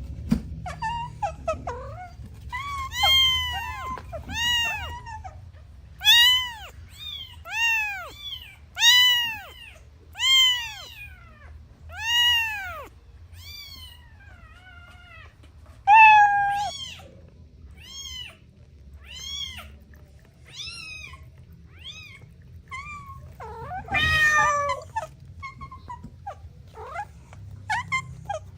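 Kittens meowing over and over: a string of short, high calls, each rising and falling in pitch, coming about every second and a half. One louder, harsher, drawn-out cry comes about 24 seconds in.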